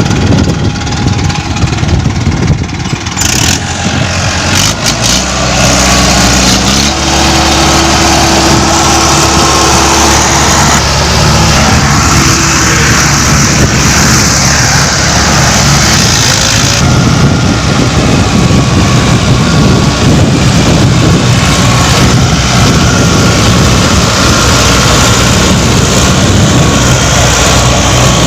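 Mahindra Arjun 555 DI tractor's diesel engine running loudly; it revs up about five or six seconds in and then holds at a steady higher speed.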